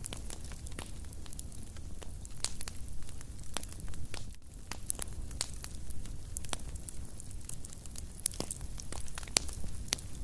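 Fireplace fire crackling, with frequent irregular sharp pops and snaps over a low steady rumble of the flames.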